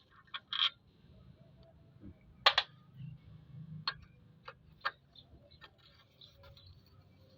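Scattered sharp clicks and clinks of hand tools on metal engine parts, as bolts come out around the oil strainer, at irregular spacing, the loudest about two and a half seconds in.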